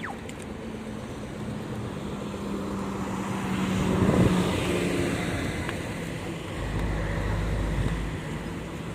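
Street traffic with a vehicle passing close by, its engine sound building to a peak about four seconds in and then fading, followed by a deep rumble from another vehicle.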